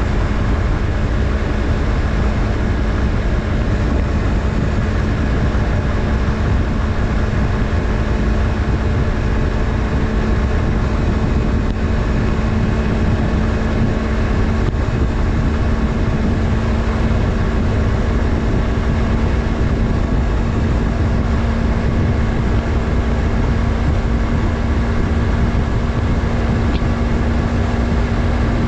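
Yamaha MT-03's 321 cc parallel-twin engine running steadily at cruising speed, its note rising slightly near the end, over a strong low rush of wind and road noise.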